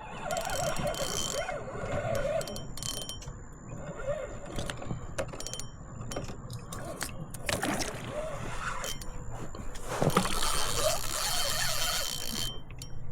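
A hooked fish being reeled in from a plastic fishing kayak: scattered clicks and knocks from the rod, reel and hull, with two longer stretches of rushing noise, one right at the start and one about ten seconds in.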